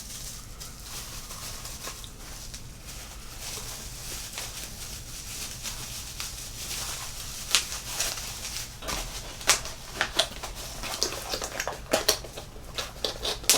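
Packaging rustling steadily for several seconds, then a run of sharp clicks and taps from handling small boxes and a glass espresso shot cup.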